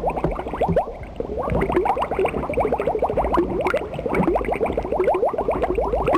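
Bubbling liquid: a dense run of short, rising blips, several a second.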